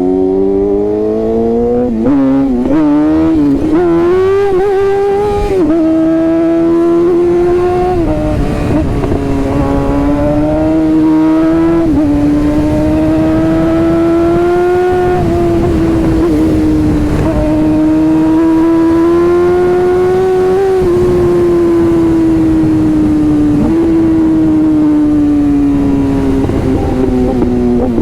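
Sportbike engine under way, its pitch wavering briefly a couple of seconds in, then climbing slowly and dropping abruptly several times as it shifts gear, with a rough wind rush underneath.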